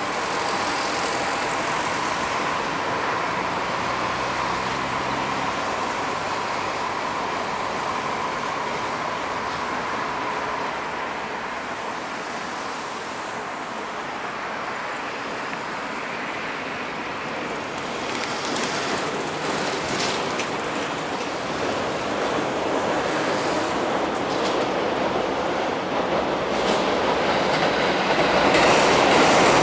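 A Shinkansen train runs over the river bridge with a steady hum that fades away. Then a DD51 diesel-hydraulic locomotive hauling a long train of loaded container wagons comes across the steel girder bridge. Its engine and wheel clatter grow louder toward the end.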